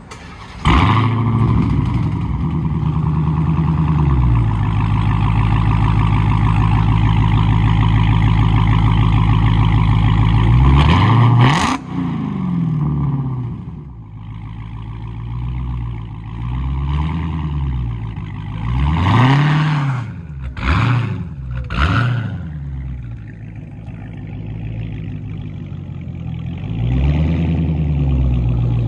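Supercharged 6.2-litre Hemi V8 in a Dodge Challenger, all four mufflers deleted so it runs on straight pipe through the catalytic converters only, starting up about a second in. It holds a steady high idle, is revved sharply at about 11 seconds, then settles lower and is blipped several more times.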